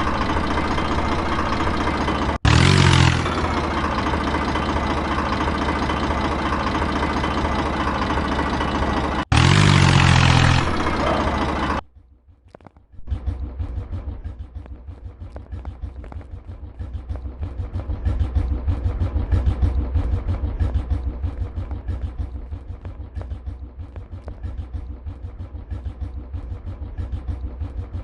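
Tractor engine running. For the first half it runs steadily, with two short louder surges. After a brief drop it goes on as a lower, rapid thumping running sound.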